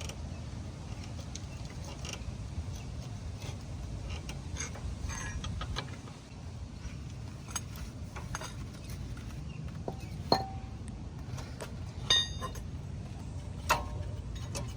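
Metal brake parts and hand tools clinking and tapping during a brake pad change, with scattered small clicks and three louder ringing metal clinks near the end, the second with a bright, several-toned ring.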